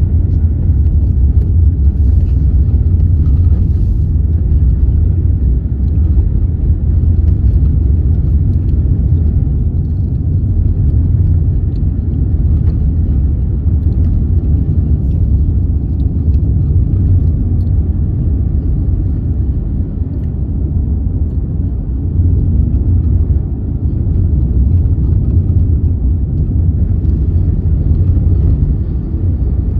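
Steady low rumble of a moving vehicle, holding fairly even throughout.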